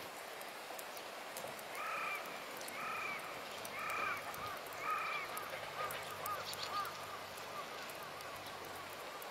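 A bird calling outdoors: four loud arched calls about a second apart, followed by a run of fainter, quicker calls that trail off.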